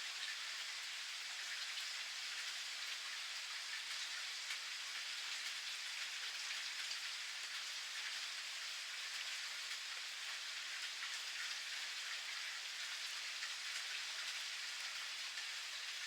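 Steady rain falling, a dense, even patter of raindrops with fine drop ticks throughout.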